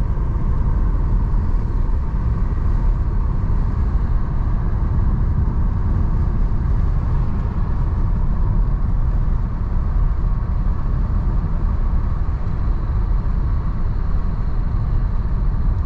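Steady road and engine noise inside a moving car's cabin: a constant deep rumble from the tyres and engine at cruising speed.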